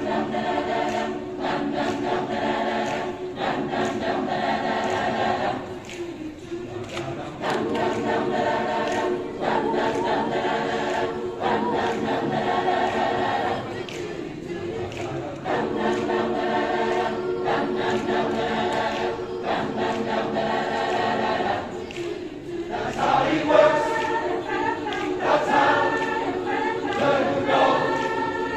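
Choir singing in phrases of held chords, each about eight seconds long with a short breath between them, growing louder and more animated near the end.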